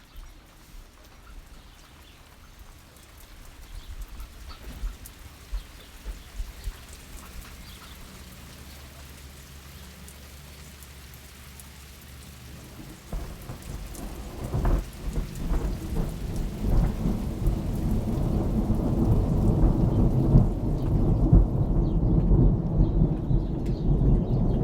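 Thunderstorm: rain falling, then a low thunder rumble building from about halfway through and growing louder toward the end.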